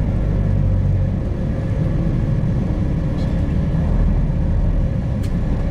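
Semi truck's diesel engine running steadily under way, a low drone with road noise heard from inside the cab.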